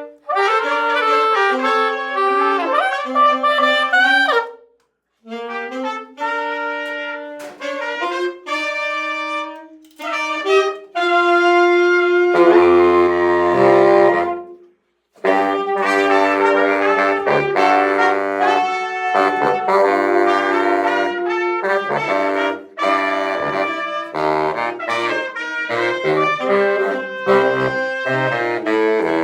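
Soprano and baritone saxophones playing a salsa tune in a duet, with low baritone notes underneath. The music breaks off briefly about four and a half seconds in and again about fourteen seconds in.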